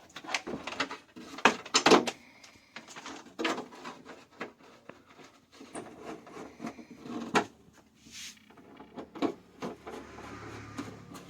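Irregular clicks, knocks and clatter from handling things on a workbench, with a low steady hum coming in about eight seconds in.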